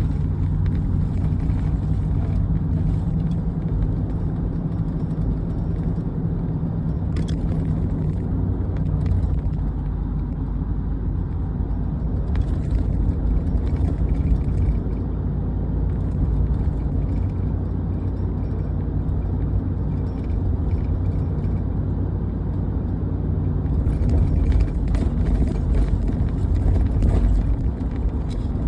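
A heavy engine running steadily with a low drone, getting a little louder near the end.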